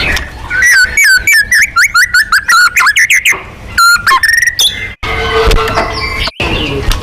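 White-rumped shama (murai batu) singing: a loud, fast run of sharp chattering notes, then a few high whistled glides, breaking off about five seconds in before softer song resumes. This is aggressive song played to provoke contest birds into singing.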